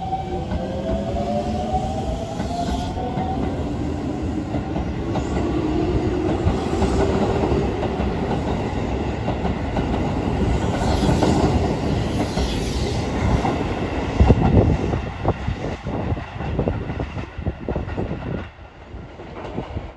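Hokuso Railway 7300-series electric train pulling out of a station: the motor whine rises in pitch as it accelerates, then the cars roll past with rolling noise and a rhythmic clickety-clack of wheels over rail joints. The sound drops away suddenly near the end.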